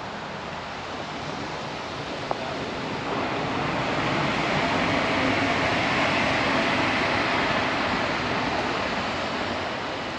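A vehicle passing on a wet road: a tyre hiss that swells to a peak midway and then fades away.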